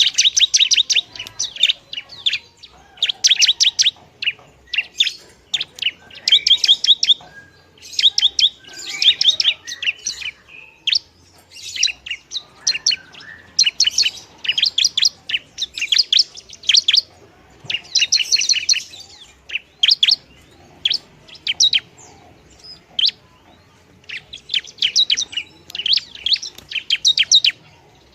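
Long-tailed shrike (pentet) singing: bursts of rapid, sharp, high chirps, each run lasting about a second, with short pauses between them.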